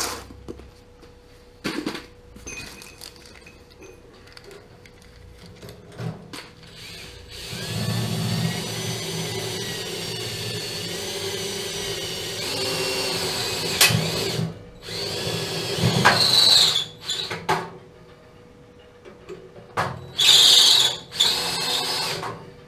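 Power drill running in bursts, working at a sheared-off screw: one long run of several seconds with a steady motor whine, then shorter, louder runs near the end.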